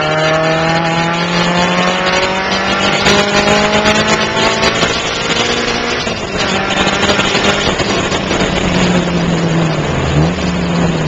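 Car engine heard from inside the cabin while lapping a race circuit. The revs climb slowly for about five seconds, change about six seconds in, then dip and pick up again near the end, over a constant hiss of tyres on wet track.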